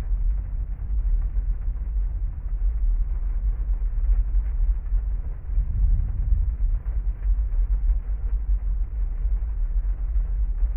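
Heavy rain on a parked car, heard muffled from inside the cabin: a steady deep rumble with faint scattered patter of drops.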